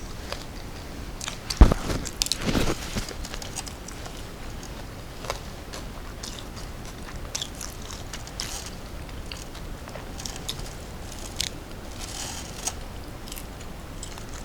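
A person biting into a crunchy snack: one loud crunching bite about a second and a half in and a second of crunching, then chewing with scattered crackles.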